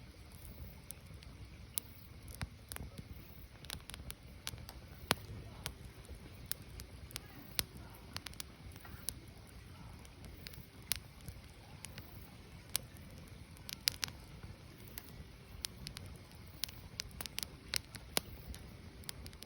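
Firewood burning: irregular sharp crackles and pops, some louder than others, over a low steady rumble of the fire.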